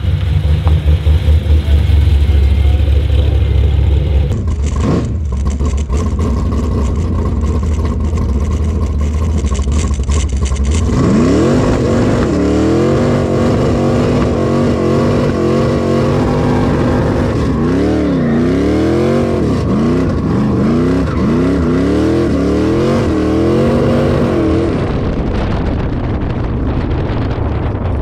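Race car engine revving hard and repeatedly during a power skid. The revs climb and drop again and again from about eleven seconds in, over a heavy low rumble.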